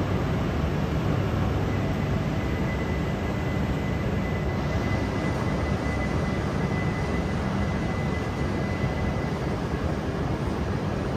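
Steady hum and hiss of a stopped E6 series shinkansen's running equipment, with a faint thin high tone from about two seconds in until near the end.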